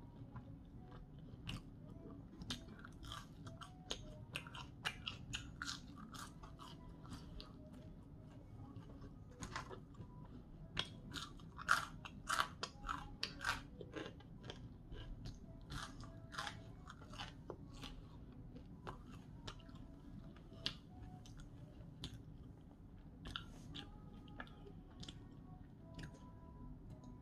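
Chewing and crunching of seasoned curly fries: irregular crisp crunches, thickest about halfway through, with quieter chewing between.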